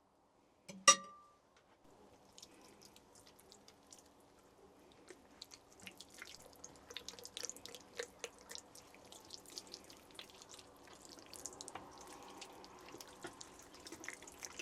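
A single sharp knock about a second in, then water dripping in scattered, irregular drops that come thicker toward the end.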